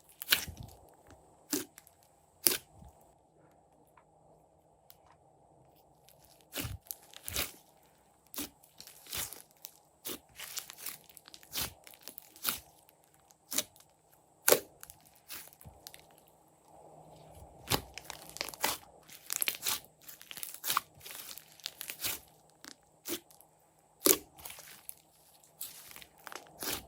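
Slime being squished and worked by hand, giving irregular sharp clicks, pops and crackles, with a lull of a few seconds near the start.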